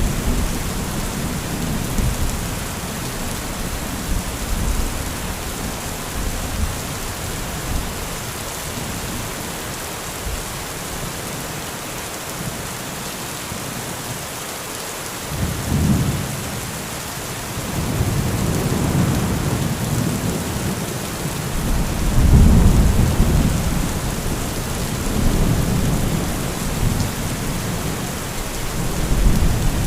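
Heavy rain falling steadily, with rolls of thunder. A rumble fades away in the first few seconds, a short one comes about halfway, and longer rolling rumbles fill the second half, loudest a little past two-thirds in.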